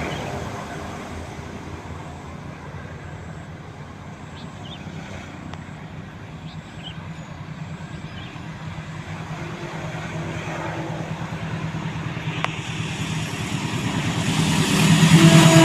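An approaching diesel train: its low engine drone grows steadily louder over the last several seconds, and the locomotive's horn starts sounding near the end.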